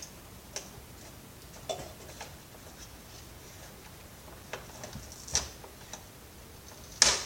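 A handful of scattered clicks and knocks from the plastic parts of a Dirt Devil upright vacuum cleaner being handled and pried apart by hand, the loudest near the end.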